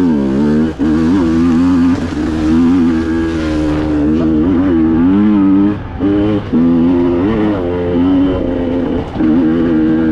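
Two-stroke enduro motorcycle engine being ridden, its pitch rising and falling over and over as the throttle is opened and shut, with a few brief drops where the throttle closes.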